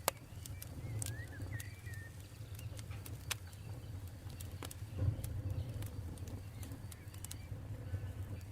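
Wood campfire crackling: irregular sharp pops and snaps over a steady low background of the burning fire, with a few faint chirps about a second in.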